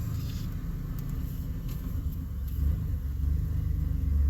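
Chevy pickup's 4.3 V6 engine running at low revs as the truck crawls along in low range, its low drone swelling a little a couple of times.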